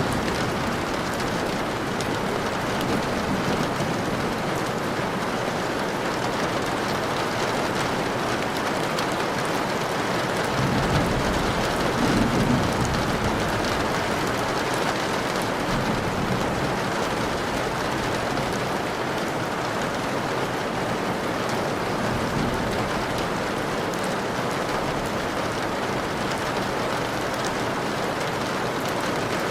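Steady rain falling, an even continuous hiss of drops on surfaces. About eleven seconds in, a low rumble of distant thunder swells briefly.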